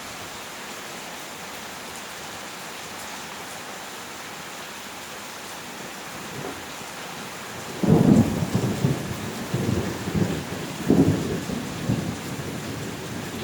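Steady heavy rain, then about eight seconds in a thunderclap breaks into a deep rolling rumble that swells again a few seconds later and rumbles on.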